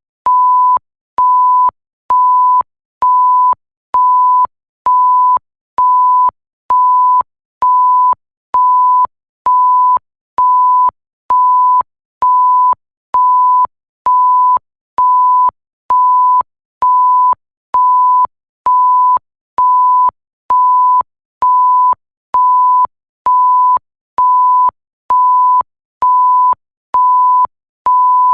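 Bleep tone: a single pure, steady high-pitched beep switched on and off in even pulses, each a little over half a second long, about one a second, with a faint click as each beep starts and stops.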